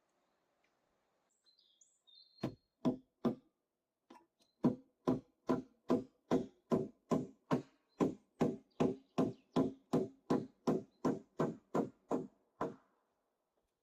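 Rhythmic knocking blows, as of a tool striking: three blows, a short pause, then a long, even run of about twenty blows at a little over two a second that stops abruptly. A bird chirps briefly before the blows begin.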